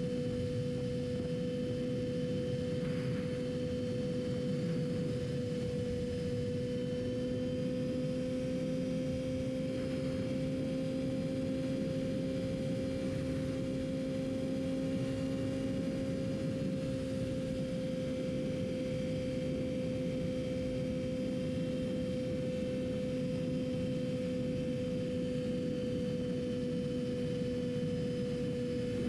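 Yamaha R6's inline-four engine running at steady revs while cruising, its pitch rising a little midway and easing back down, over a steady rushing noise.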